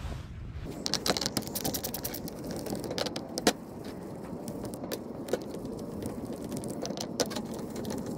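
Hand tool working the screws out of a Husqvarna 55 Rancher chainsaw's handle and housing: irregular sharp clicks and small metal clinks over a steady scratchy rustle.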